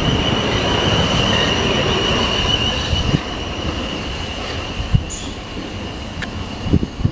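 Electric multiple-unit train running through the station with a steady, high-pitched wheel squeal over the rumble of the train. The sound slowly fades in the second half, and two short clicks are heard near the end.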